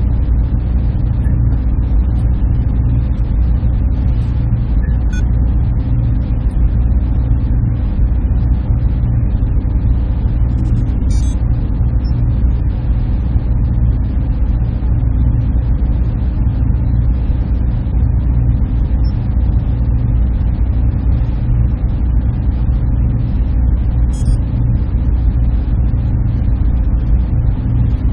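Server room ambience: a steady low hum and fan rush from the machines and cooling, unchanging throughout, with a couple of faint high ticks about 11 and 24 seconds in.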